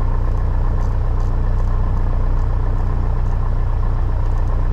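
Piper Cherokee 180's four-cylinder Lycoming O-360 engine running steadily at low power. It is a freshly installed engine in its break-in period.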